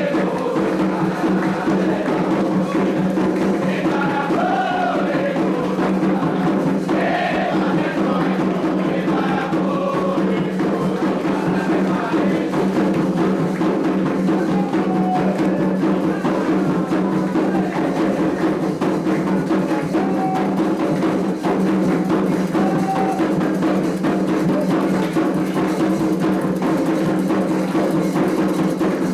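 Candomblé ritual music: continuous hand-drum percussion with a struck bell or wood-block pattern, under a group singing a chant.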